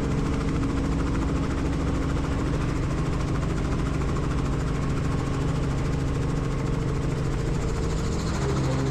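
Helicopter turbine engine and rotor running steadily, a constant drone with a few held tones.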